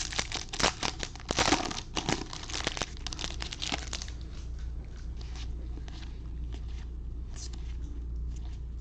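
Trading-card packs being handled: dense crinkling and rustling of pack wrappers and cards for about four seconds, then dying down to a few soft ticks over a low steady hum.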